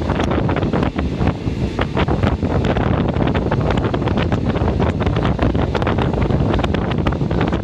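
Running noise of a moving train heard from inside the carriage: a steady rush of wind buffeting the microphone, with frequent rattles and clicks of the coach throughout.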